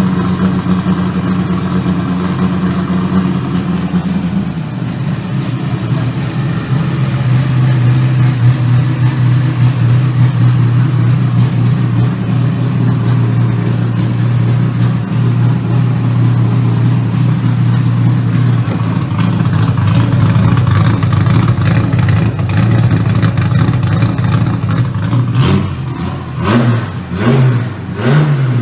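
Chevrolet 400 engine running at a steady raised speed, which drops to a lower steady speed about four seconds in. Near the end it is revved in several quick throttle blips.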